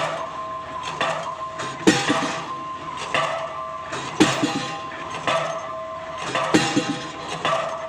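Pile-driving hammer striking a PHC concrete pile: three heavy blows about two and a half seconds apart, with lighter knocks between them, over the steady hum of the rig.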